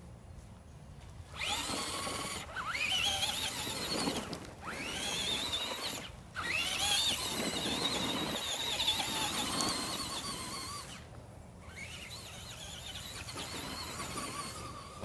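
Electric motor of a Traxxas radio-controlled truck whining as it accelerates, in repeated bursts that rise in pitch, broken by short pauses.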